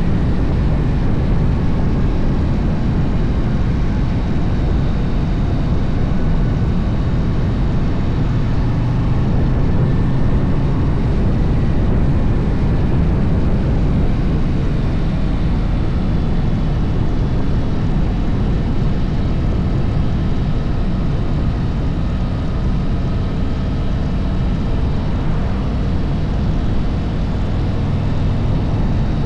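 Harley-Davidson V-twin motorcycle running steadily on the move, a constant low rumble with a faint drifting whine above it.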